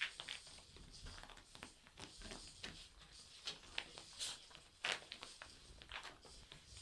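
Irregular rustling and scratching of a wet dog rubbing and rolling on a carpet to dry herself, with short sharp scrapes scattered through it.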